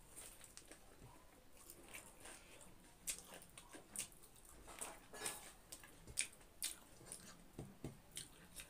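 Close-miked eating sounds: chewing and wet mouth clicks, with soft squishes of rice being mixed by hand. They are faint at first, and short clicks and smacks come more often after about three seconds.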